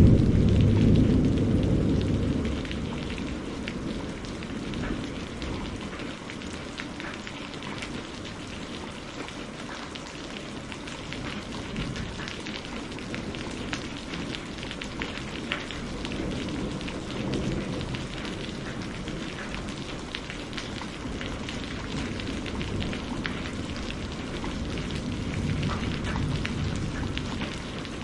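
Steady rain falling, with fine drop ticks through an even hiss. A low roll of thunder at the start dies away over the first couple of seconds, and fainter low rumbles swell up again later.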